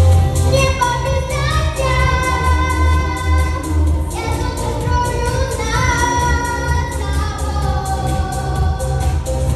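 A girl singing a pop song over a backing track with a steady electronic beat and heavy bass. She sings two long, held phrases with a short break between them.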